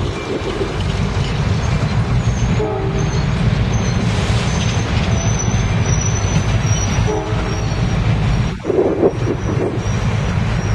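Loaded flatcars of a railroad work train rolling past: a steady rumble of wheels on rail with a thin high squeal of wheel flanges through most of it. Two brief horn toots sound, about three and seven seconds in.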